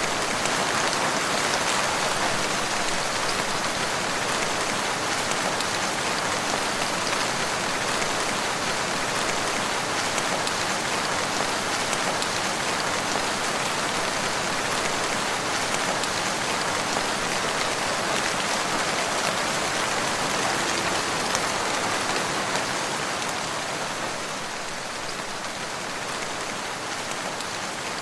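Steady rain falling, a dense, even hiss of countless drops on surfaces, easing slightly about three-quarters of the way through.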